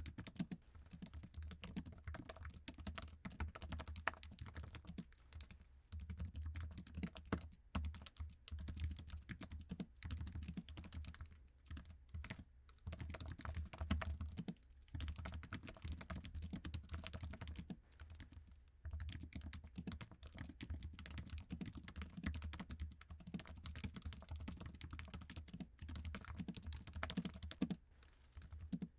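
Fast, continuous typing on an iMac's standard Apple keyboard: a dense patter of low-profile key clicks, broken by a few brief pauses.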